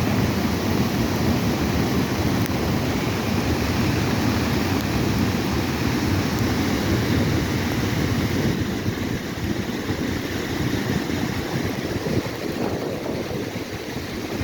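Flash-flood water rushing steadily, a dense, continuous low rush of fast-moving floodwater, with wind noise on the microphone.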